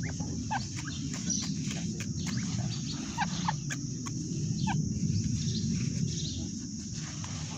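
Partridge (teetar) giving short, scattered chirps and clucks over a steady low rumble.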